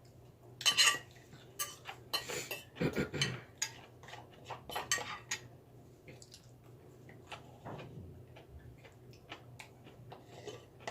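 Spoon and cutlery clinking against a bowl and plate while eating soup and salad: scattered light clinks and scrapes, busiest in the first half.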